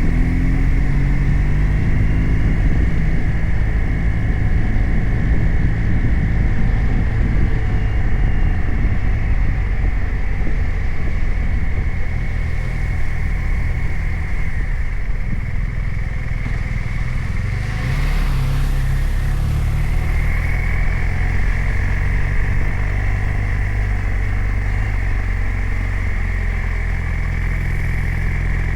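BMW R 1250 RT's flat-twin boxer engine running as the motorcycle is ridden, its pitch falling over the first couple of seconds and then holding fairly steady. A brief rush of noise comes about eighteen seconds in.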